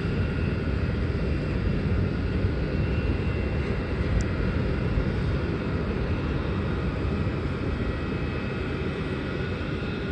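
Jet airliner engines heard across the airport: a steady rumble with a faint high whine.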